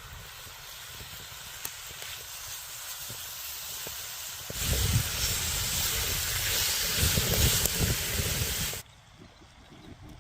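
Meat and vegetables sizzling over a campfire: a steady hiss that turns much louder about four and a half seconds in, with low crackling under it, then drops suddenly to a faint background near the end.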